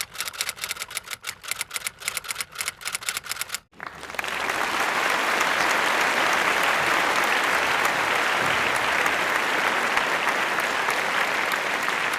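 Rubik's Cube layers being turned, rapid plastic clicks several times a second. About four seconds in they give way to a dense, steady applause-like hiss.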